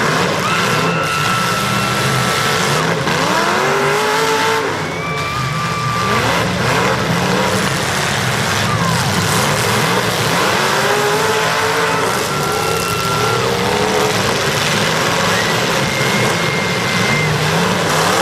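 Several demolition derby cars' engines revving up and easing off over and over, with brief high tire squeals over a dense, steady din.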